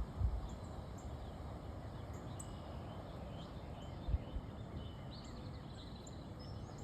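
Small birds chirping in short scattered calls over a steady outdoor background hiss, with two brief low thumps, one just after the start and one about four seconds in.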